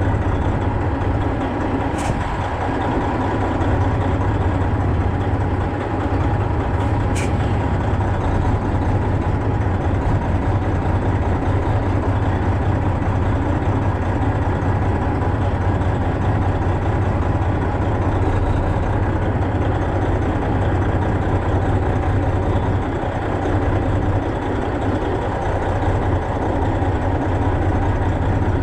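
Semi truck's diesel engine running steadily with a deep hum, with two short sharp clicks about two and seven seconds in.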